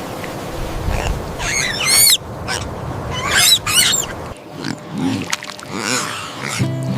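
A piglet squealing in two high, wavering cries, followed by lower grunts.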